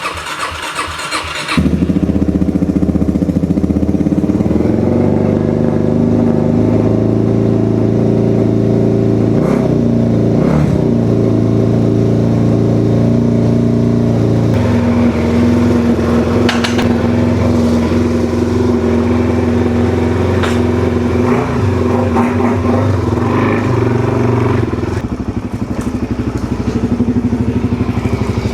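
Suzuki DR-Z400SM's single-cylinder four-stroke engine on its first cold start after months of sitting: about a second and a half of cranking, then it catches and settles into a steady idle. The idle note shifts about halfway through and the engine runs a little quieter near the end.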